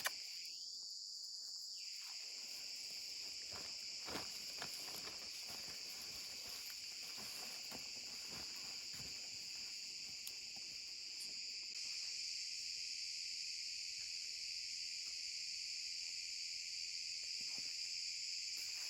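A steady, high chorus of insects chirring, growing slightly louder a little past the middle, with a few faint clicks.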